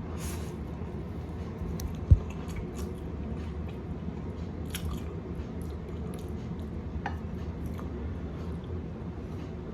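Close-up eating of Indomie pancit canton instant stir-fried noodles: wet chewing with scattered small clicks. A sharp low thump about two seconds in, over a steady low hum.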